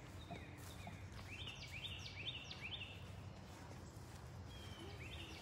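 A songbird singing runs of quick, repeated chirping notes, about four a second, one run in the middle and another starting near the end, over a low steady background rumble.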